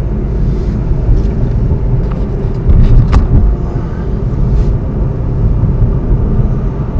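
Car interior road noise while driving: a steady low rumble of engine and tyres, with a brief click about three seconds in.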